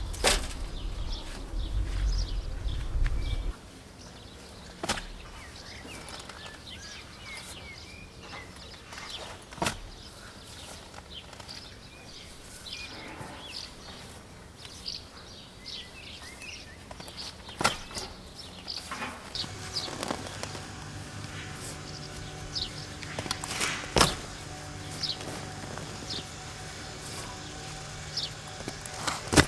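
Birds chirping, with a few sharp clicks or knocks spread through. A low rumble in the first few seconds, and a steady low hum that comes in about two-thirds of the way through.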